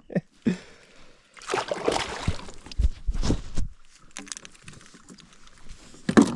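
Water splashing and sloshing at a kayak, in two bursts a little over a second long, with a sharp knock near the end.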